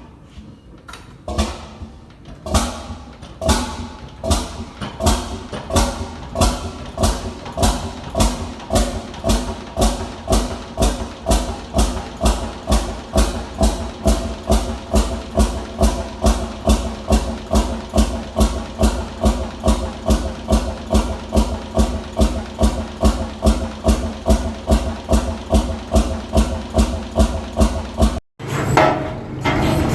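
Big old Fairbanks Morse engine starting from cold: a few scattered firing strokes, then it catches and settles into a steady, even beat of about two strokes a second. Near the end the sound cuts sharply to a different, steadier engine sound.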